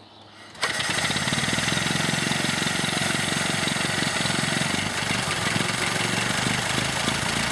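Ford Model T four-cylinder engine hand-cranked on the magneto: it catches suddenly about half a second in and keeps running steadily.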